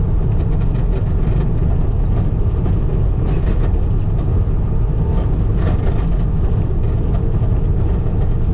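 Skid steer engine running steadily under load as its grader attachment cuts and turns over a gravel driveway, with a few scattered clicks and crunches of rock.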